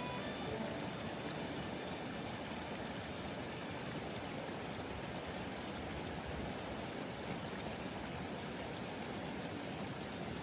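Steady rush of flowing water, like a mountain stream running.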